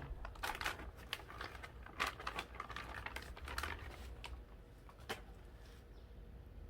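Light clicks and taps from small parts and tools being handled, frequent for about four seconds and then sparse, over a low steady hum.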